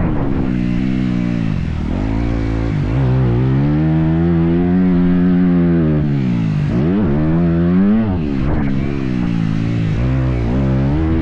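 Motocross bike engine revving as it is ridden, its pitch climbing and falling several times as the throttle is opened and shut, over a steady low engine drone.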